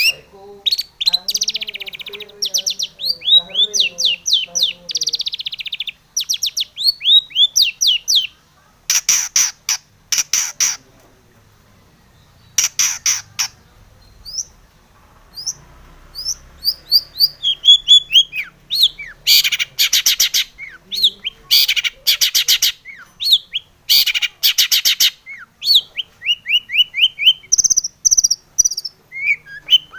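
Long-tailed shrike (cendet) singing a fast, varied song. It runs quick falling whistles and chirps together with loud harsh rasping bursts, and pauses for a few seconds about midway.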